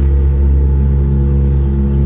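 Engine running steadily, a loud low droning hum with an even, unchanging pitch.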